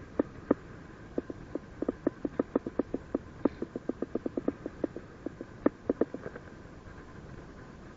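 Paragliding variometer beeping: a train of short pips that quicken to about four or five a second in the middle and then thin out, the audio climb tone signalling lift.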